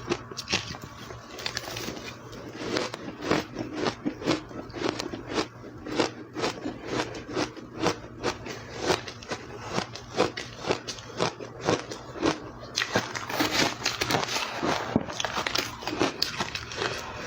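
A person chewing ice close to the microphone: a steady run of crisp crunches, several a second. Near the end the crunching turns louder and crisper.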